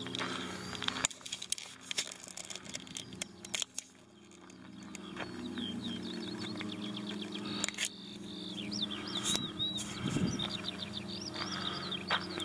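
A songbird singing a quick run of high chirps and short trills through the second half, with a few scattered clicks earlier on.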